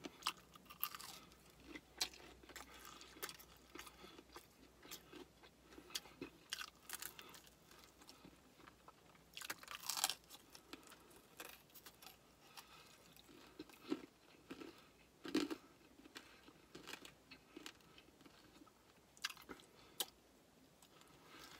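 A person chewing and biting crispy fried chicken: irregular crunches and chewing sounds, the loudest crunch about ten seconds in.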